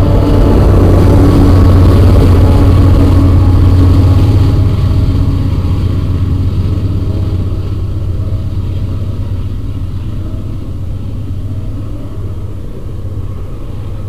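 CSX diesel locomotive passing with an empty coal train: a steady low engine drone with wheel and car rattle, loud at first and then fading steadily from about four seconds in as the train moves away.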